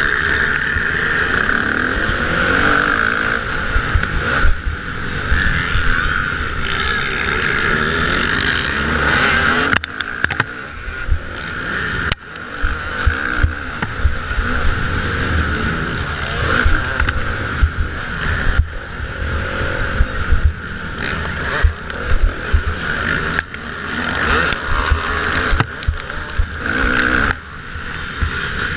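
Motocross dirt bikes racing round the track, their engines revving up and down.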